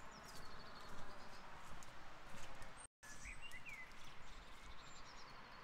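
Steady rain with small birds twittering in short falling runs of chirps, twice. The sound cuts out completely for a moment about three seconds in.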